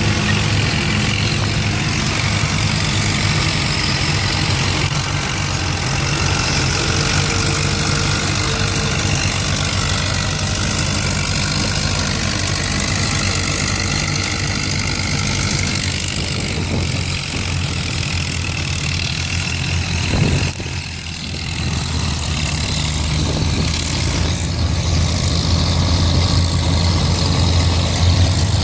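Antique tractor engine running steadily at a low, even speed, with a brief drop in level about two-thirds of the way through.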